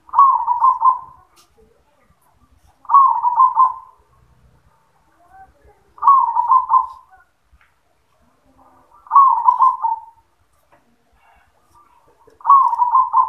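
Zebra dove (perkutut) cooing: five phrases about three seconds apart, each a short higher note followed by a quick rolling run of lower notes.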